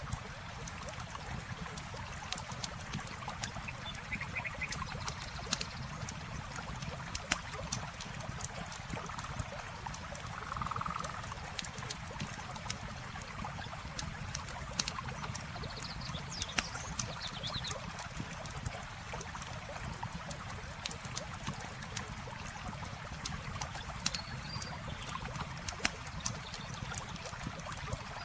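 Campfire crackling with many irregular sharp pops, over the steady sound of running water at the waterside. A few faint chirps of small animals come through now and then.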